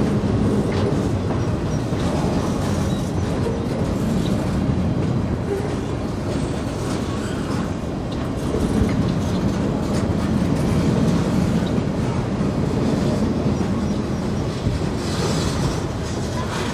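Freight train cars rolling past on the rails: a steady low rolling noise with faint clicks of the wheels over the rail joints.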